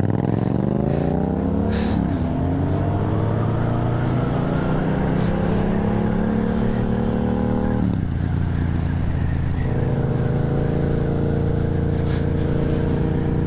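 Inline-four engine of a 2015 Suzuki GSX-R 750 with an Akrapovic slip-on exhaust, heard from the rider's seat under way. It revs up hard and drops at a gear change about two seconds in, climbs slowly again, then drops about eight seconds in and runs steady.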